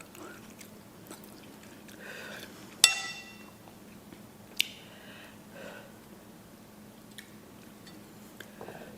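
Quiet eating sounds, soft chewing and slurping of noodles, with a sharp ringing clink of a utensil against the dish about three seconds in and a smaller clink a couple of seconds later.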